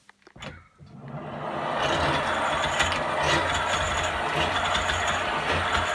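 Foot-powered Archimedean-screw treadle grinder spinning up over the first couple of seconds, then running steadily with a loud mechanical noise. The noise comes from the screw drive being unoiled and ungreased.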